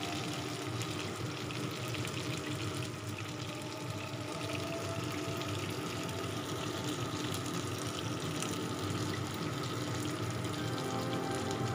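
Chicken wings sizzling steadily in hot oil in a frying pan, a continuous crackling hiss.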